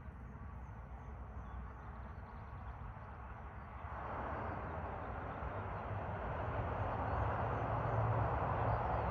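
Jet airliner's engines, a rushing roar that swells from about four seconds in and keeps growing louder as the aircraft approaches, over a steady low rumble.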